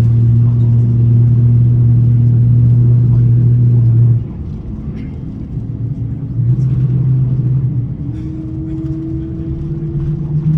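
Airbus A350-900 cabin noise while taxiing: a loud, steady low hum that cuts off abruptly about four seconds in. The hum comes back briefly a couple of seconds later, and a slightly higher steady tone starts near the end.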